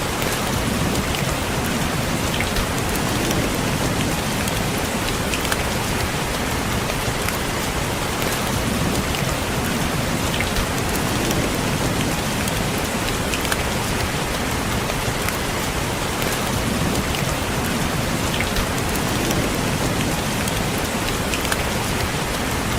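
Steady rain pattering on a window pane, with scattered individual drop ticks over a continuous rushing wash.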